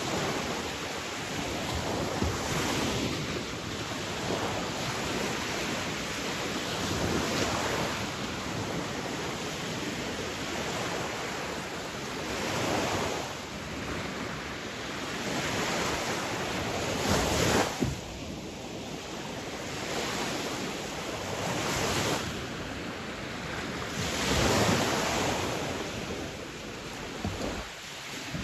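Sea waves breaking on a shore: a continuous rush of surf that swells with each incoming wave every four to five seconds.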